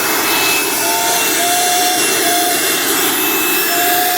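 Dirt Devil Ultra Vision Turbo upright vacuum motor running steadily, with a thin whistle that comes and goes in short stretches from about a second in. The owner puts the whistle down to the machine being partly taken apart.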